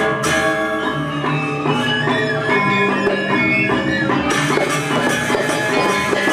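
Balinese gamelan music playing steadily: bronze metallophones ringing in many sustained pitched tones, accompanying a dance.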